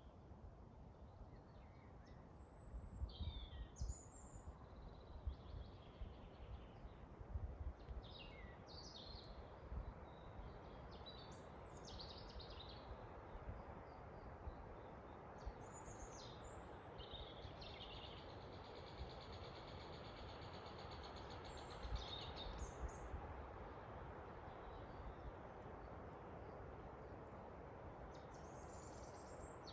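Several forest birds giving short chirps and whistled calls over a steady faint rushing of wind, with a long, fast trill in the middle and low rumbles in the first half.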